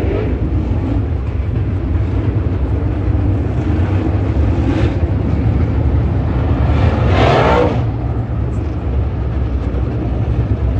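Dirt late model race car engines running steadily, with a louder surge in engine sound about seven seconds in that rises and falls.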